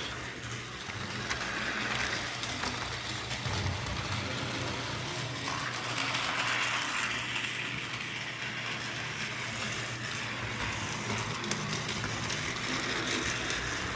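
Battery-powered Tomy Diesel 10 toy train with its white motor running, pulling its coaches along plastic track: a steady, quiet whir with the rattle of small wheels, swelling and fading a little as it goes.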